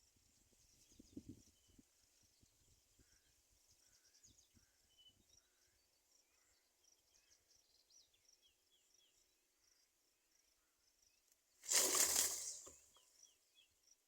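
Faint outdoor background of small birds chirping and insects calling. A soft crackle comes about a second in, and a sudden loud rush of noise lasting about a second comes near the end.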